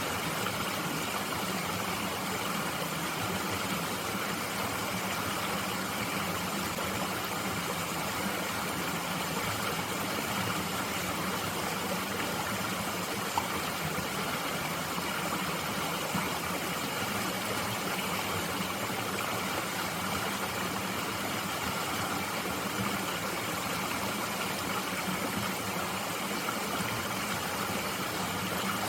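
Mountain stream flowing steadily, an even wash of water noise, with a single small tick about thirteen seconds in.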